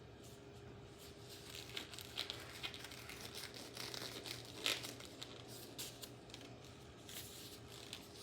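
Irregular crinkling and rustling as medication packaging is handled, the loudest crinkle a little past the middle, over a faint steady hum.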